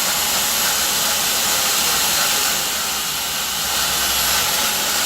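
A steady, even hiss without breaks.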